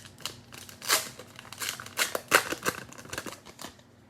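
Cellophane wrapper of a trading-card cello pack being torn open and crinkled by hand, a run of sharp crackles with the loudest about a second in and again past the middle.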